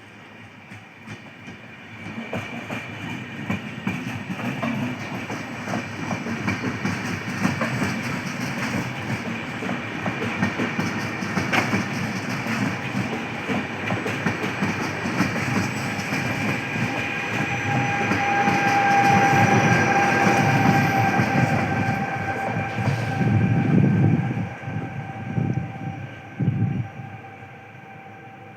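Train running through the station: wheels rumbling and clattering over rail joints, with a steady whine over the top. It builds about two seconds in, is loudest towards the end, then fades.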